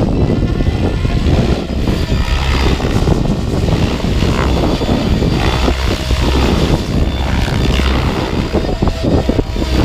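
Wind buffeting the microphone over an electric SAB Kraken 700 RC helicopter flying, its rotor and brushless motor sound carrying through the wind noise.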